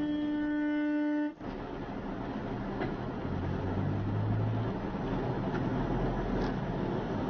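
Car horn held on one steady note, cutting off abruptly about a second in, followed by steady road and traffic noise from a moving vehicle.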